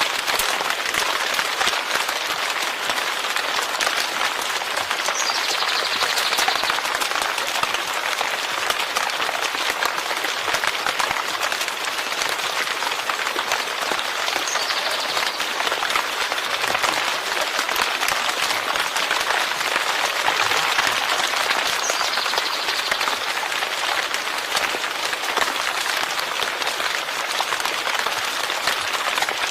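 Steady heavy rain: a dense, even patter of countless drops.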